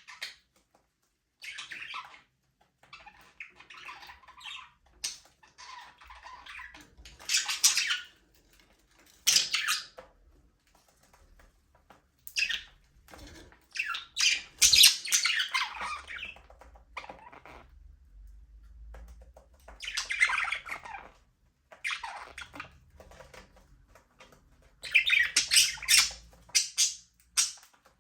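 Budgerigars chirping and chattering in irregular bursts, with some louder squawks among the softer warbling.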